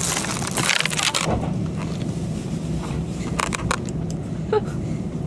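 Steady low rumble of a moving train carriage, opened by about a second of crinkling rustle as food packaging is handled, with a few light clicks later on.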